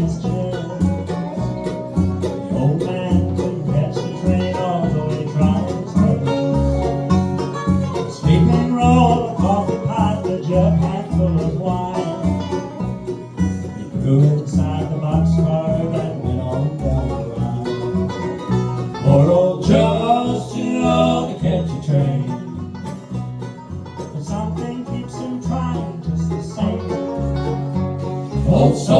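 Bluegrass band playing an instrumental passage, with banjo and guitar picking over a regular, steady bass line.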